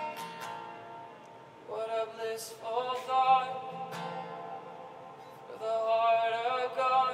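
Live worship music: an acoustic guitar strum followed by a singer's two wordless, sustained sung phrases with a soft accompaniment underneath.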